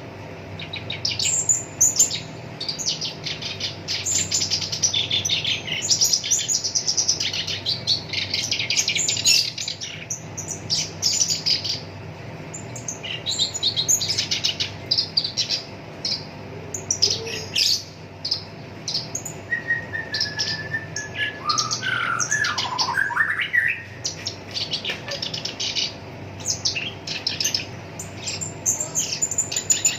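Black-browed reed warbler singing a fast, harsh chattering song of rapid rattling trills. About two-thirds of the way through it drops to a held whistled note and a few swooping notes before the rapid chatter resumes.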